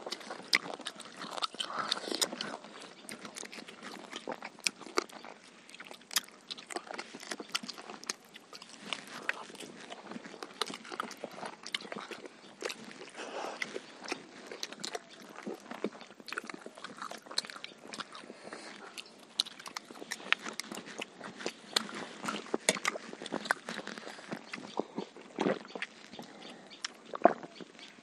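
Eating sounds of several people chewing and biting chicken and rice by hand: wet chewing, lip smacks and small crunches, with many quick, irregular clicks. A sharp knock sounds about a second before the end.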